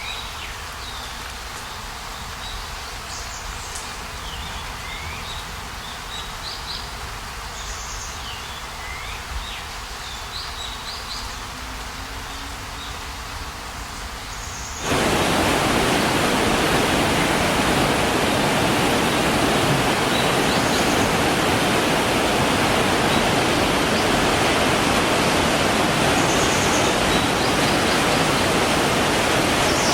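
Short high chirps from small birds or insects over a quiet background, then, about halfway through, an abrupt cut to a mountain river rushing over rocks: a loud, steady rush of water.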